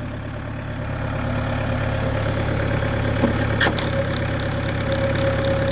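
New Holland TC40D compact diesel tractor engine running steadily with the PTO being run; a steady higher whine comes in about halfway through and strengthens toward the end. A couple of sharp clicks come a little past three seconds in.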